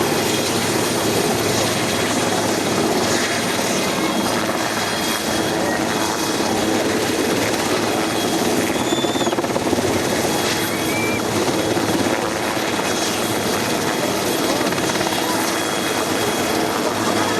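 Irish Coast Guard search-and-rescue helicopter heard from about half a mile off, a steady, unbroken drone of rotors and engines.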